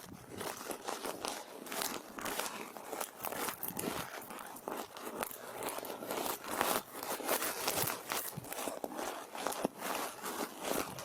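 ASMR brush strokes scratching across the microphone: quick, irregular swishes, several a second, over a faint background hiss.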